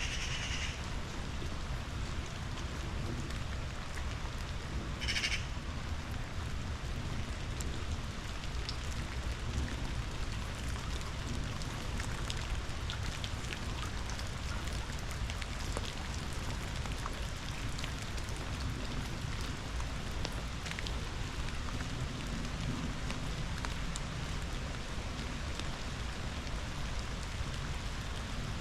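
Steady rain pattering down over the rush of river water, with a low rumble underneath. A single short, high call cuts through about five seconds in.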